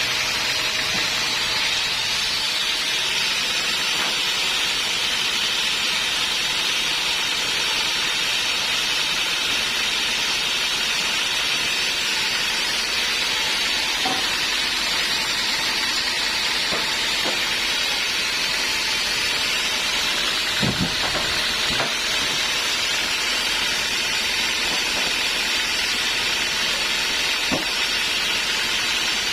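Sawmill band saw cutting through teak: a steady hiss of the blade in the wood over the running machine, with a few faint knocks.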